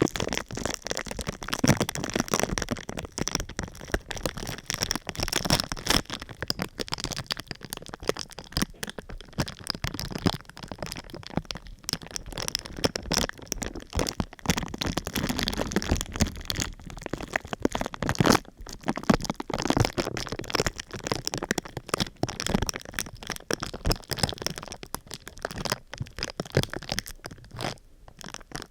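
Thin crinkly sheet material, vinyl or paper, being handled, crumpled and squeezed close to the microphone: a dense, irregular stream of small crackles and crunches with a few louder snaps.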